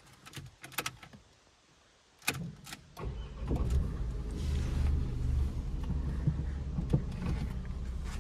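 A few light clicks and rattles, then the Renault Kwid's 1.0 three-cylinder engine starts about three seconds in and runs at a steady idle.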